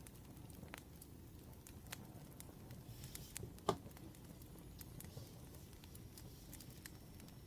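Faint wood fire crackling: scattered small snaps over a low rumble, with one sharper pop just after the middle.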